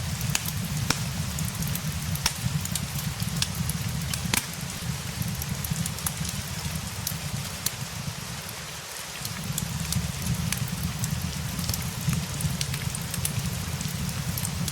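Steady rain hiss mixed with a wood fire's scattered sharp crackles and pops, over a continuous low rumble that dips briefly about halfway through.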